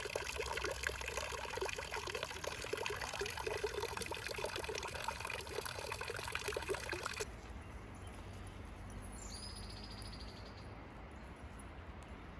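Water running and trickling, a continuous splashy noise that cuts off abruptly about seven seconds in. Afterwards only a quieter low background remains, with a brief high, thin whistle-like tone about two seconds later.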